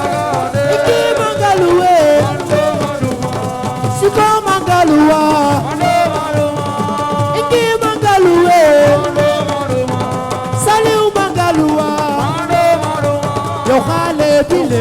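Assiko band music: hand drums and percussion under a melody line that slides and bends between notes.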